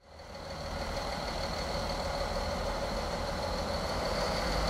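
A train standing at a station platform, its machinery running steadily: a low engine-like hum with a steady high whine above it, fading in over the first half second.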